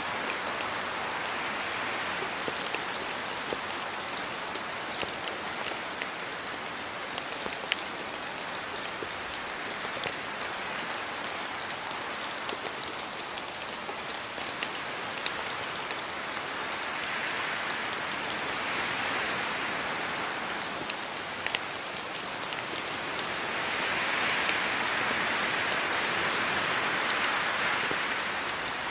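Steady rain falling, with many separate drops ticking close by. The rain swells louder twice, once past the middle and again near the end.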